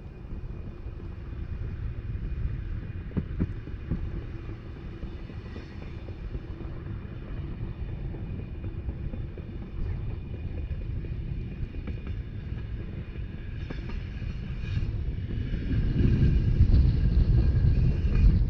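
Rhaetian Railway narrow-gauge regional train running along the track, heard from on board: a steady low rumble of wheels on rails with faint high steady tones above it, growing louder about three-quarters of the way through.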